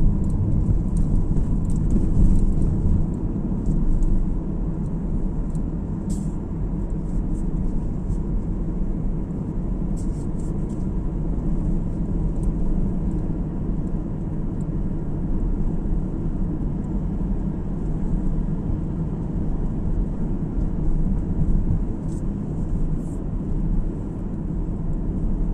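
A car driving along a road, heard from inside the cabin: a steady low rumble of tyre and engine noise, a little louder for the first few seconds, with a few faint clicks.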